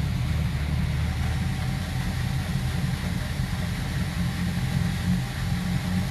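Twin inboard boat engines idling steadily during warm-up.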